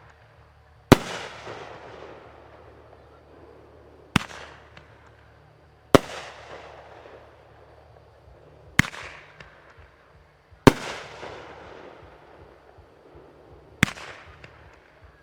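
Aerial fireworks bursting overhead: six sharp bangs a few seconds apart, each trailing off in a fading echo.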